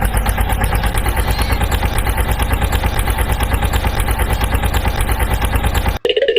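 Heavy diesel truck engine idling with a steady, rapid chugging pulse and a low rumble, cutting off abruptly near the end.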